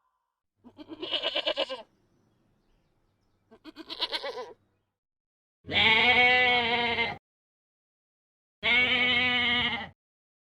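Four bleats from livestock: two short quavering bleats, then two longer, louder, steadier ones.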